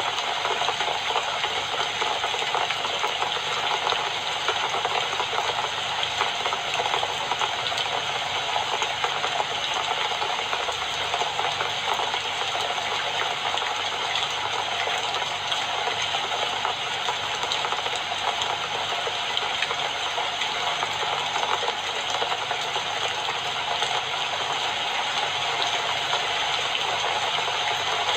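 Steady rain falling, a dense even patter with no let-up.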